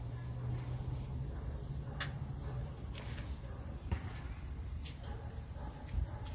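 Steady high-pitched outdoor insect chorus, with a few faint clicks.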